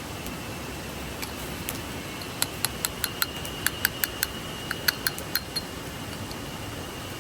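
About a dozen light, sharp clinks in quick, uneven succession over roughly three seconds, with a faint ringing note under them, over the steady rush of a stream.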